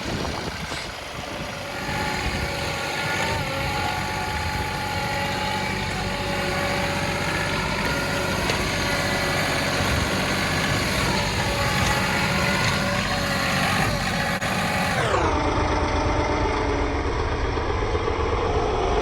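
John Deere 2038R compact tractor's diesel engine running steadily as it works through deep snow, its pitch drifting slightly and then dropping about three-quarters of the way through.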